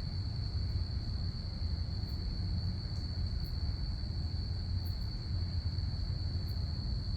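Crickets chirping in a steady, unbroken high-pitched chorus over a continuous low rumble.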